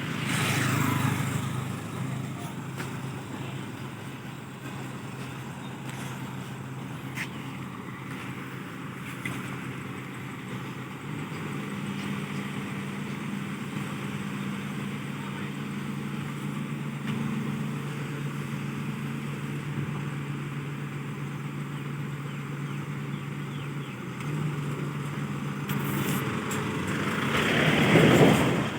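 Heavy diesel engine idling with a steady low hum. A vehicle passes close by about a second in, and another one builds up and goes by near the end.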